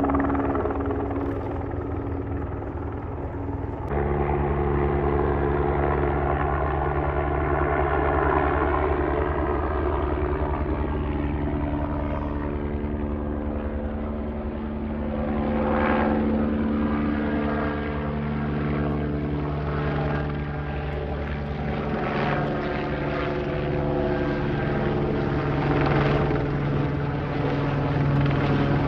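Airbus H125 single-turbine helicopter flying over, with a steady turbine and rotor drone and the main rotor's rhythmic blade thump. The sound changes abruptly about four seconds in, and the rotor pulsing grows stronger in the second half.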